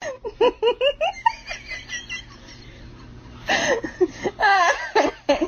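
Laughter in quick repeated bursts, a run in the first second, then a louder, higher run from about three and a half seconds in.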